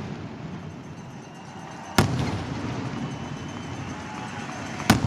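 Fireworks: two sharp shell bursts about three seconds apart, over a steady low background rumble left after a barrage.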